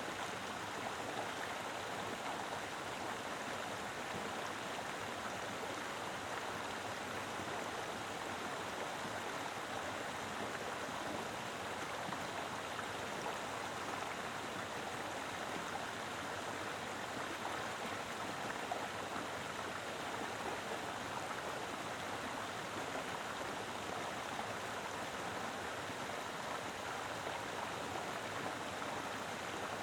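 Mountain river flowing over rocks: a steady, even rush of water that stays constant throughout.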